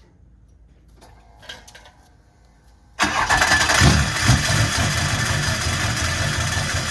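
Duramax LB7 6.6-litre V8 turbodiesel catching and firing up suddenly about three seconds in, then running steadily. Something is hitting down low, which the owner takes for the flywheel striking something or the starter hanging up.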